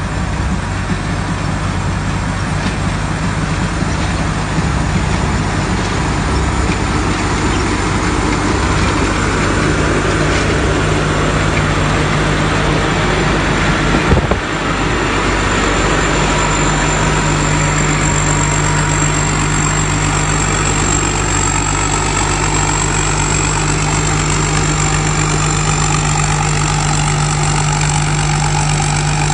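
Engine of a rice harvesting machine running steadily. About halfway through there is a brief knock, after which a high whine holds steady over the engine.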